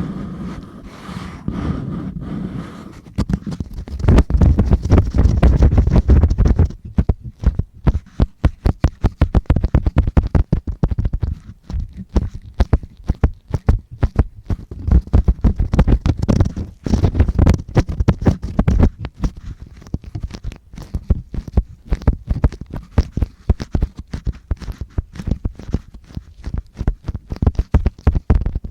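ASMR ear-cleaning tools scratching and rubbing against the microphone: rapid, close crackling scratches with a deep rumble, heaviest in a couple of stretches.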